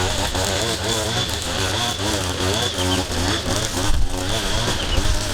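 A steady engine hum with people talking over it.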